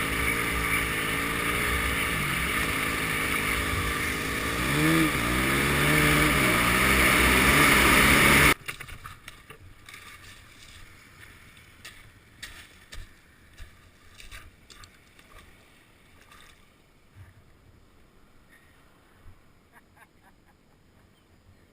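An engine running steadily, its revs dipping and climbing about five seconds in, then rising in level before the sound cuts off abruptly about eight seconds in. After that only faint scattered clicks and knocks remain.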